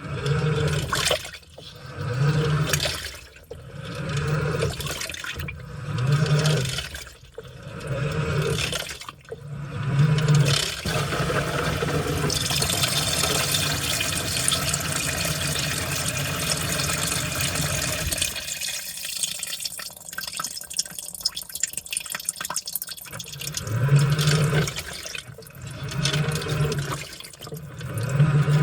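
Washing machine agitating its load: the motor hums and the tub turns in even pulses about every one and a half to two seconds, sloshing the water and laundry. About twelve seconds in the pulses give way to a steady rush of water for several seconds, then it drops quieter, and the sloshing pulses return near the end.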